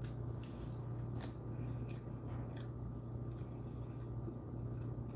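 A person chewing a mouthful of sandwich with her mouth closed: faint, scattered soft mouth clicks over a steady low hum.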